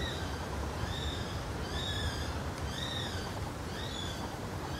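A bird calling: a short, high, arched note repeated about once a second, over a low rumble of wind or movement.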